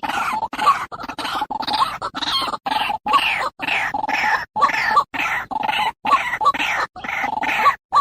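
White-breasted waterhen (ruak-ruak) calling over and over in quick repeated notes, chopped by brief, sudden gaps of silence.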